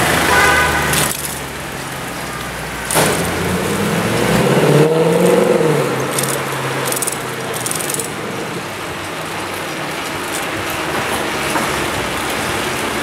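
Mercedes-Benz C63 AMG Coupe's V8 exhaust under hard acceleration. The engine note starts suddenly about three seconds in, rises and then falls again near the middle as the car goes by, and is followed by steady street traffic.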